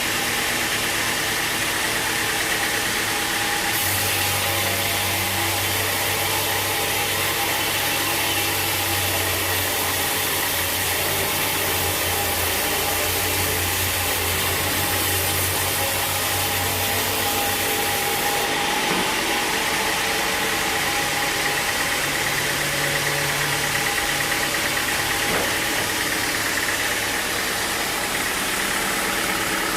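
Sawmill machinery running steadily: an engine hum under a dense hiss. The hiss and hum grow stronger from about four seconds in and ease off again at about eighteen seconds.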